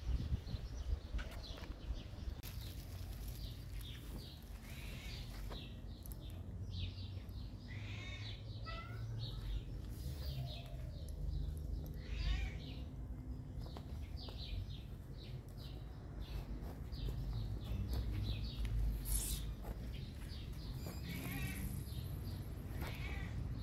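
Small birds chirping in many short, repeated calls over a low steady rumble.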